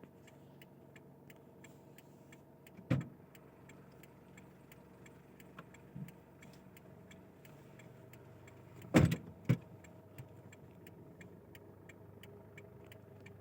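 Car engine running, heard from inside the car, with the indicator ticking steadily about two to three times a second. A single thump comes about three seconds in, and a louder double thump about nine seconds in.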